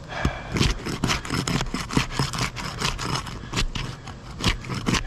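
A roofing tool scraping and prying under roof shingles, an irregular run of scrapes and sharp clicks.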